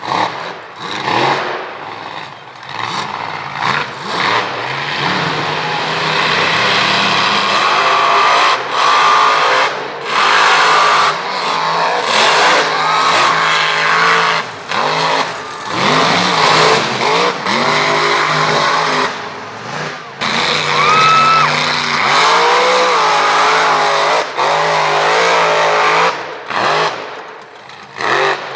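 Mega mud truck's engine revving hard, its pitch climbing and falling again and again, with several abrupt breaks in the sound.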